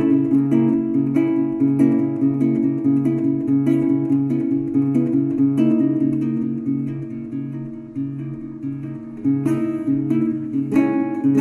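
Acoustic guitar music, plucked and strummed notes in a steady pattern that thins out and softens past the middle, then picks up again with sharper strums near the end.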